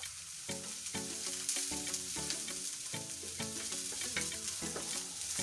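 Chopped spring onions sizzling in hot oil in a frying pan, stirred with a wooden spatula that knocks lightly against the pan as it turns them.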